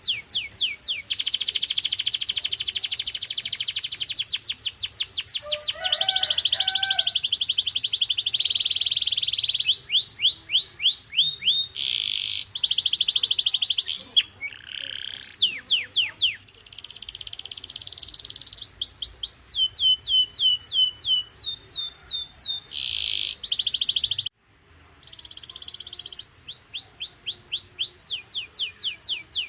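Domestic canary singing a continuous song of fast rolls: runs of quick, high, falling notes repeated many times a second, switching to a new phrase every second or two, with a brief pause near the end.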